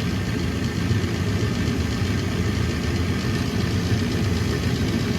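Gas furnace draft inducer motor running with a steady hum at the start of a heat call. The pressure switch has proved, and the furnace is waiting to light the hot surface igniter.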